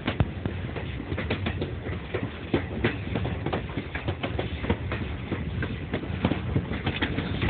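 Railroad passenger car rolling along the track: a steady low rumble with frequent irregular clacks and knocks from the wheels on the rails.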